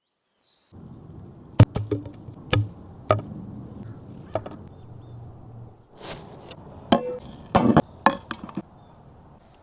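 Knife chopping on a cutting board: about a dozen sharp, unevenly spaced strokes, with a faint steady background noise underneath.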